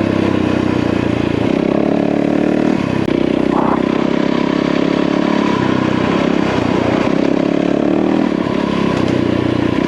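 Yamaha WR450F single-cylinder four-stroke dirt bike engine running under way, its note shifting up and down every second or two with throttle and gear changes.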